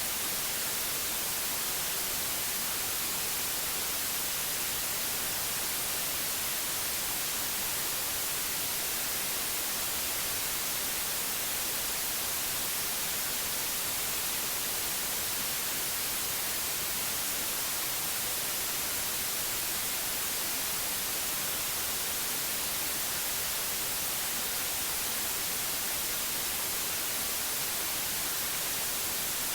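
Steady white noise: an even, unchanging hiss that is brightest in the high treble.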